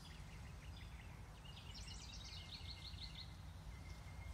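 Songbirds singing: a few short chirps in the first second, then a quick trill of about ten rapidly repeated high notes from about a second and a half to just past three seconds. A low steady rumble runs underneath.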